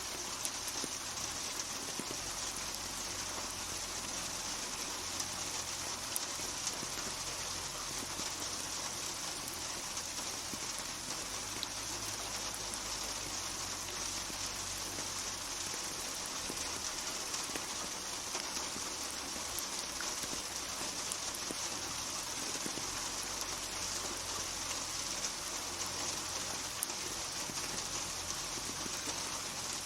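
Steady rain falling, an even hiss with scattered drops ticking, cutting in suddenly out of silence.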